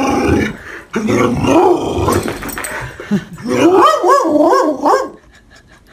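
A dog vocalizing in long, wavering growl-howls, ending with a quick run of rising and falling calls before stopping about five seconds in.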